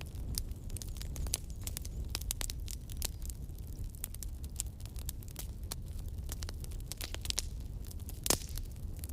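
Campfire burning: a steady low rumble of the flames with irregular crackles and small pops of the burning wood, one sharper pop near the end.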